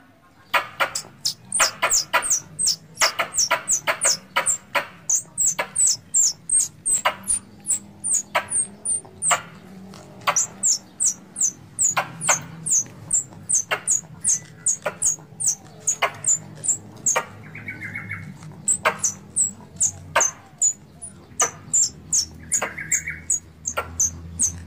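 Squirrel (bajing) calling: a long run of sharp, high chips, about two to three a second, each sliding down in pitch, with a few short pauses.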